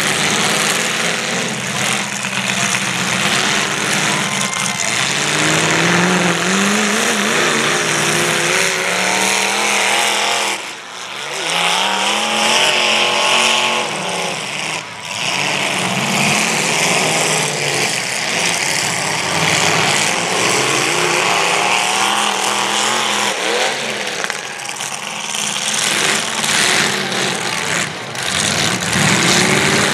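Several demolition derby cars' engines revving hard, overlapping, their pitch rising and falling again and again as they rev up and back off.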